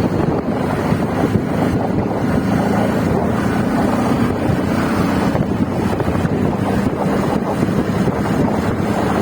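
Steady wind buffeting the microphone, with a faint low hum underneath.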